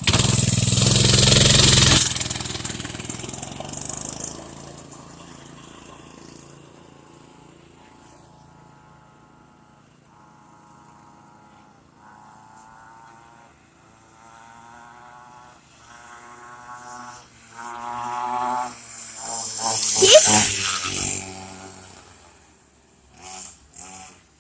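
Dirt bike engine pulling away loudly and fading into the distance, then growing louder again as it comes back and passes close by near the end, its pitch falling as it goes past.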